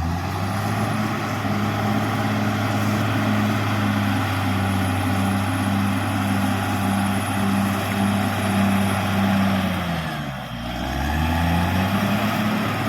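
Caterpillar D6R XL bulldozer's diesel engine running steadily. About ten seconds in, its pitch sags and then climbs back over a second or two.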